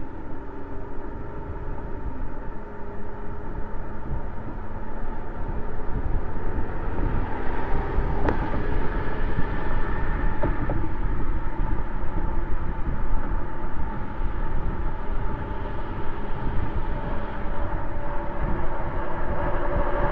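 Exhaust of a twin-turbo V12 Mercedes-Benz S600 while the car is driven, heard with wind and road noise from a microphone mounted outside near the tailpipe. The sound is steady and gets somewhat louder several seconds in.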